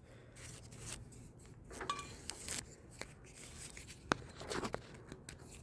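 Faint handling noises of parts being moved: light rubbing and rustling with a few sharp clicks and taps.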